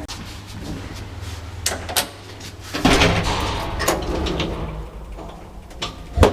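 A door being opened and shut: latch clicks, a loud rush of noise about three seconds in, and a sharp bang near the end.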